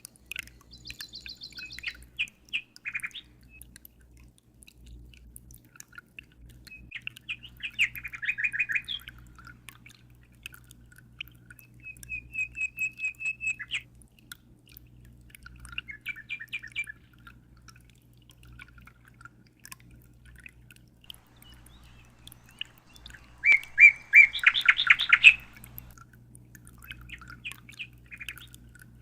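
Birds chirping and trilling in short bursts, with a quick run of repeated notes about halfway through and the loudest flurry of calls later on. A steady low hum runs underneath.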